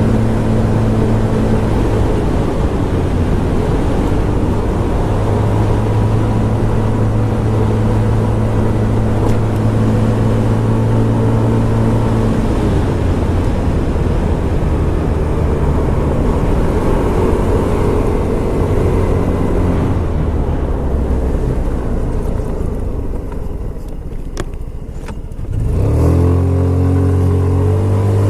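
Scomadi TT125 scooter's 125 cc engine running at road speed with wind and road noise. Near the end the throttle eases off and the engine note drops and quietens, then about 26 seconds in the engine picks up sharply as it accelerates again.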